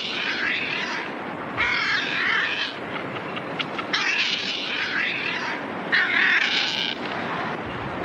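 Seabirds giving harsh, raspy squawks: four calls of about a second each, over a steady rushing background.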